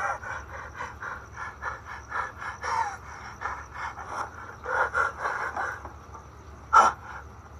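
Heavy panting and gasping from exhausted men straining through a physical endurance ordeal, in quick uneven breaths, with one sharp loud breath near the end.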